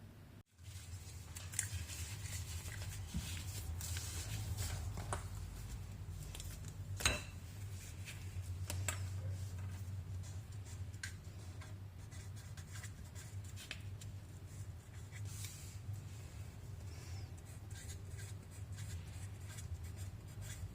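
Scattered light taps and clicks of objects being handled, with one sharper click about seven seconds in, over a steady low hum.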